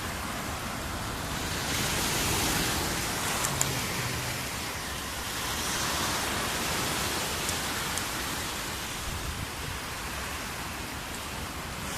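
Steady, even outdoor noise, a hiss that swells and eases slowly, with a few faint ticks.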